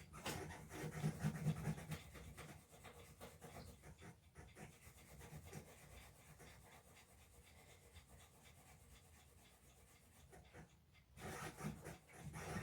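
Faint rubbing and scrubbing by hand over welded metal joints as the welds are cleaned up, stronger in the first couple of seconds and again near the end, quieter in between.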